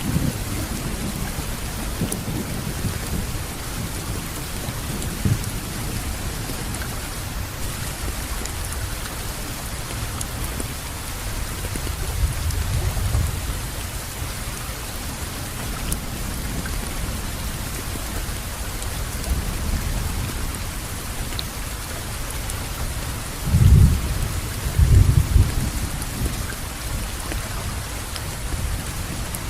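Steady rain falling, with low rolling thunder: a soft rumble about halfway through and two louder rumbles near the end.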